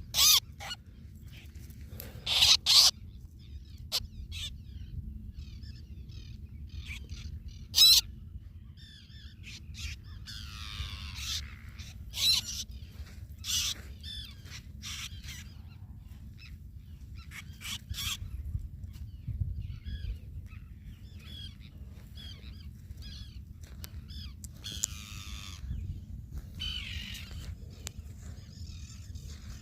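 Seabirds calling at a nesting site: harsh, loud calls at irregular intervals, several loud ones in the first half, with quieter chatter between them. A steady low rumble runs underneath.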